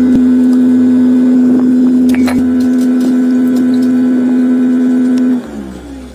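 An electric power tool's motor running at a steady speed with a constant hum and a few light clicks. About five seconds in it is switched off and its pitch falls as it spins down.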